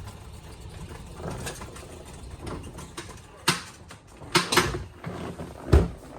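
A low steady rumble, then a handful of sharp knocks and thumps in the second half, the loudest shortly before the end.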